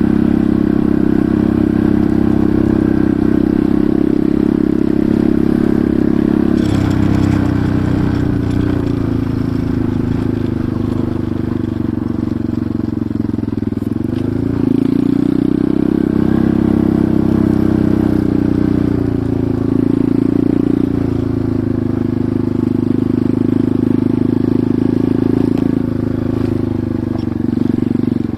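Enduro motorcycle engine running under way, its pitch dropping about a quarter of the way in, then rising and falling again with the throttle.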